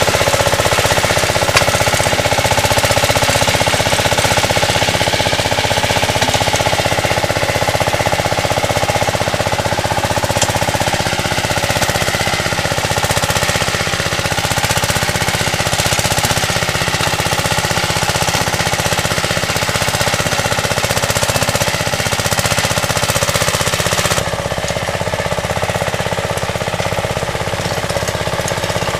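Two-wheel tractor engine running steadily under load while working the soil with a digger implement, with a fast, even mechanical clatter. Slightly quieter and duller from about 24 seconds in.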